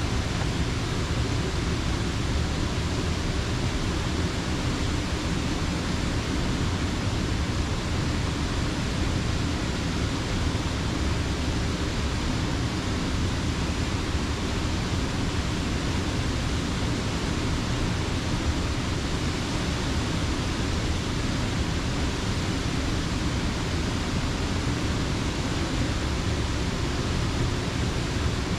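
Steady rushing of water in Slippery Rock Creek, a full, even wash of sound that does not change.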